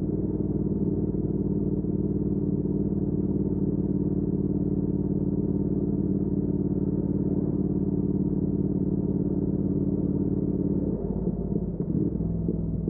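2019 Triumph Speed Twin's 1200 cc parallel-twin engine through a Weslake Shorty Pro exhaust, holding a steady note at cruising revs. About eleven seconds in, the note breaks up and turns uneven.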